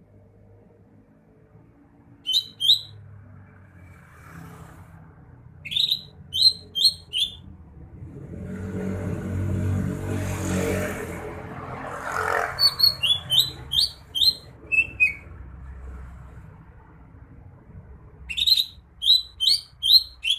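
Greater green leafbird (cucak hijau) singing: short, sharp, high notes in quick runs of three to five, with pauses between the runs. In the middle a vehicle passes, a rushing noise that swells and fades under the song.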